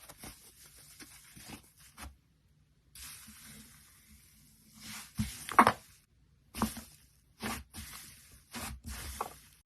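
Slime being squished and stretched by hand, giving irregular sticky crackles and pops in clusters, broken by two short silences, with the loudest pop a little past halfway.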